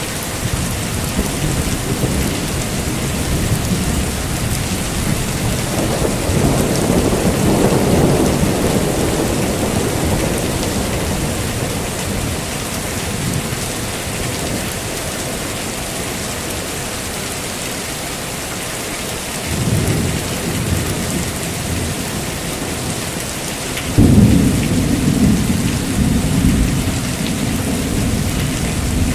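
Heavy rain falling steadily with thunder rolling in: a long rumble builds about six seconds in, a shorter one comes near twenty seconds, and a sharper crack about twenty-four seconds in rumbles on.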